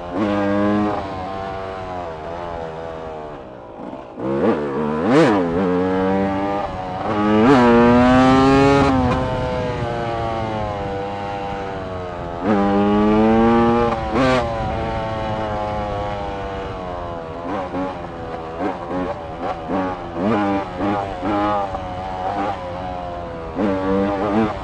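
Pickup truck engine being driven hard, its pitch climbing and falling as the throttle is opened and let off. A quick rev up and down comes about five seconds in, and near the end the throttle comes on and off in short rapid pulses.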